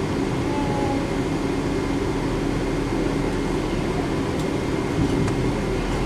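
Steady cabin hum inside a Boeing 777-200 airliner: engine and air-conditioning noise, an even rush with a constant low drone.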